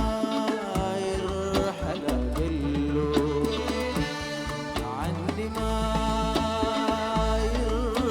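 Sudanese band playing an instrumental passage of a song: held melody notes over a deep bass line, with quick hand-percussion strikes.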